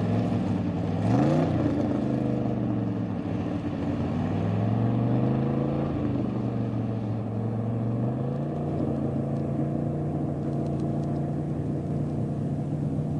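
Engine of a land-speed racing vehicle revved in short blips, its pitch rising and falling, then running at a steady idle from about eight seconds in.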